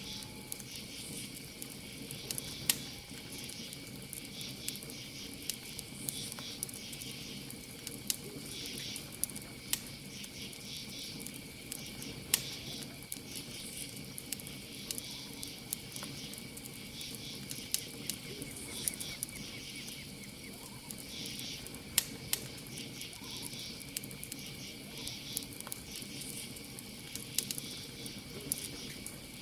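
Campfire crackling, with frequent small snaps and a handful of louder pops, over a steady high-pitched cricket trill that never stops.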